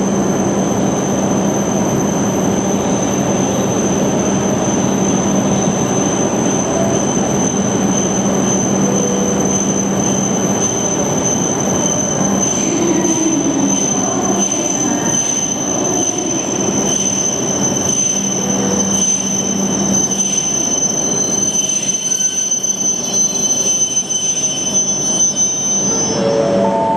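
Shinkansen train running slowly along a station platform: a steady rumble of running noise with a continuous high-pitched squeal over it that stops near the end.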